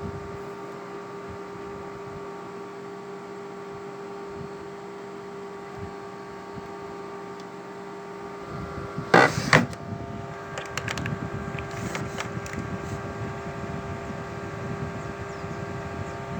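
A steady electrical hum with several fixed tones. About nine seconds in come two loud knocks, then a louder rumbling noise with scattered clicks.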